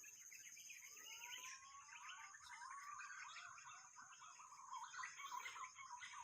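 Birds calling faintly in a tree: many short chirping notes, with a rising whistle about a second in, over a steady high-pitched tone.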